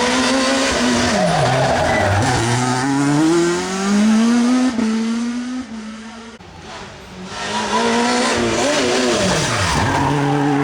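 Rally car engine revving hard and shifting up through the gears, the pitch climbing and dropping at each change. About six seconds in it fades, then comes back loud and climbing again.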